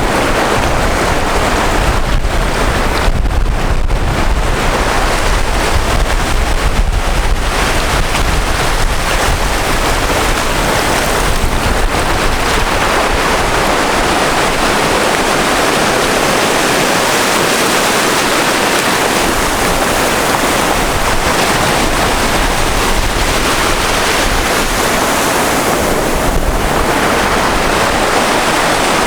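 Sea surf washing in steadily, with wind buffeting the microphone at times.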